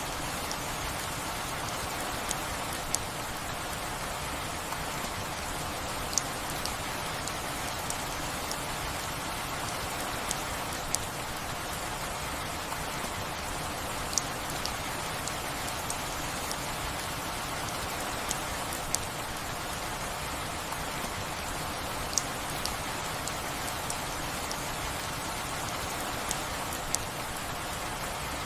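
Steady rain falling, with scattered louder single drops ticking sharply on a nearby surface every second or two.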